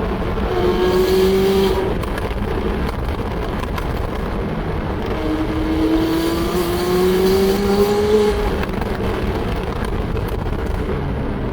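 McLaren 570S twin-turbo V8 through a Tneer full exhaust with catless downpipes, running with two rising pulls in engine speed: a short one about a second in and a longer, slower climb from about five to eight seconds in.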